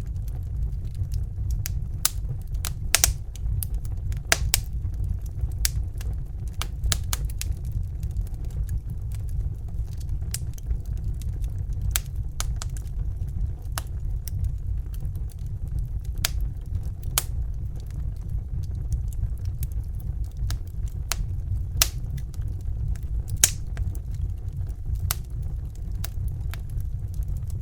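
Crackling fire: irregular sharp pops and snaps, a few each second, over a steady low rumble.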